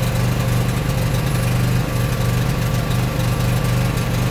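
Trailer-mounted pony motor, a small engine driving the gooseneck's hydraulic pump, running steadily with an even low hum.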